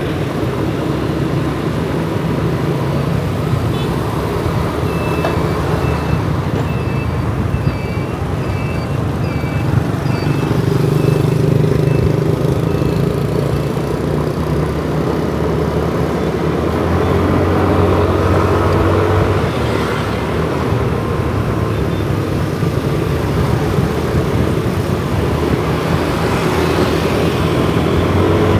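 Motorcycle engine running under the rider, with city traffic around it; the engine note climbs as the bike speeds up about ten seconds in and again a few seconds later. A string of short high beeps sounds a few seconds in.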